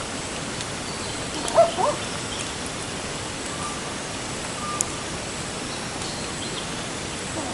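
Steady outdoor hiss of natural ambience, with a brief pair of short gliding calls about a second and a half in and a couple of faint short tones later.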